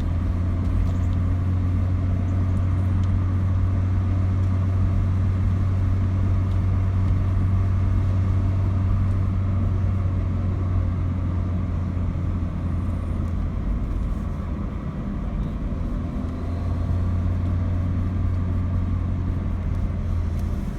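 Saab 900 Commemorative Edition's turbocharged four-cylinder engine and Abbott aftermarket exhaust during a drive at steady, easy speed: a steady low drone with a brief dip about fifteen seconds in.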